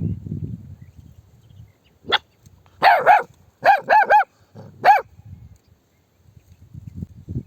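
Dog barking: a quick run of about six barks, each rising and falling in pitch, starting about three seconds in after one short yelp.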